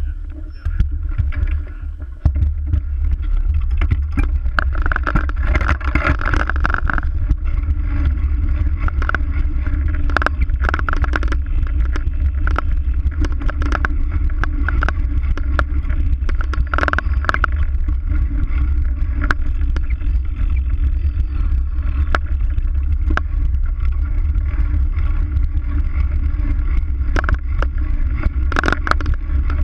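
Bicycle ride heard through a GoPro camera mounted on the bike: a steady low rumble of wind and rolling noise, louder from about two seconds in, with frequent sharp knocks and rattles of the rig jolting over bumps.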